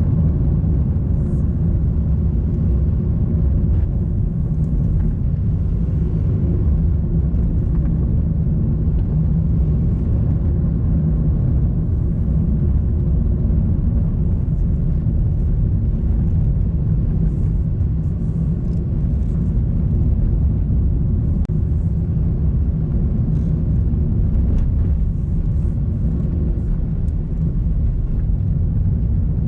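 Car driving along a road: a steady low rumble of engine and tyres with a faint hum, holding level throughout.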